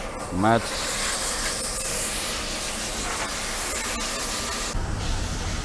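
High-pressure spray at a car wash hissing steadily for about four seconds. A short rising pitched sound comes near the start, and a low rumble comes in near the end.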